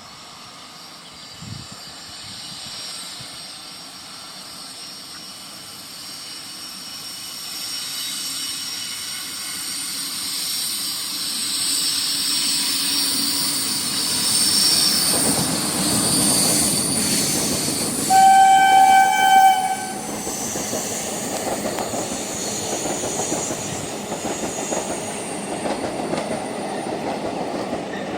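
Diesel-hauled passenger train approaching, its sound growing steadily louder; about eighteen seconds in the locomotive's horn sounds for about a second and a half, then the train runs past with a steady rhythmic clatter of wheels over the rails.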